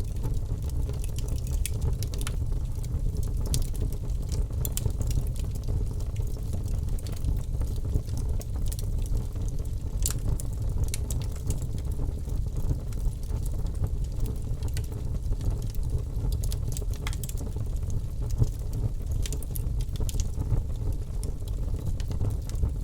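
Wood fire burning in a fireplace: a steady low rumble of the flames with scattered, irregular sharp crackles and pops from the burning logs.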